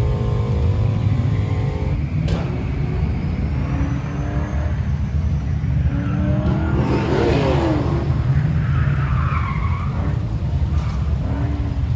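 Several car engines idling in a line with a steady low rumble. About seven seconds in, one revs up and pulls away, and a brief tire squeal follows.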